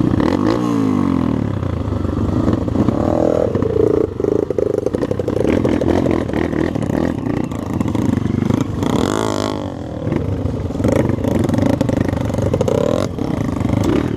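Off-road motorcycle engine on a dirt trail, revving up and easing off again several times as the throttle is worked.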